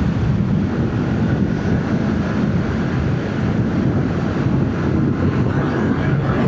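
Yamaha MT-07's parallel-twin engine running with its stock exhaust as the motorcycle rides along, with wind buffeting the helmet microphone.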